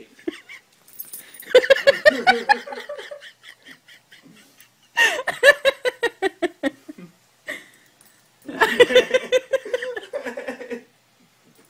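Human laughter in three bouts of a couple of seconds each, rapid and pulsing, with short gaps between them.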